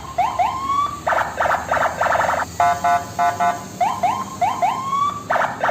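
Electronic siren sound effect from a battery-powered toy truck's sound chip. It plays a cycle that repeats about every four seconds: a few quick beeps, several rising whoops and a fast pulsing buzz, much like a car alarm.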